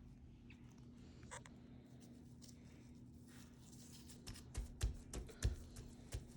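A hand patting dry rub onto raw chicken quarters: a few soft, dull slaps in the second half, over a faint steady hum.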